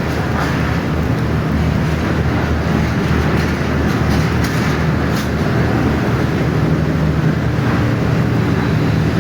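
Passenger train running in heavy rain: a steady low drone with dense rumbling noise over it, and a few sharp clicks in the first second and again about five seconds in.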